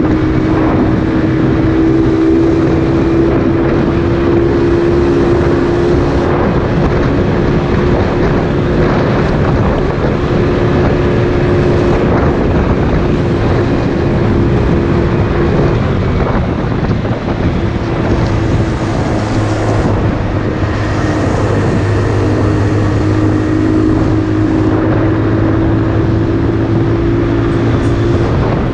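Motorcycle engine running at a fairly steady speed while riding, with wind rushing over the microphone. The engine note shifts a little around the middle.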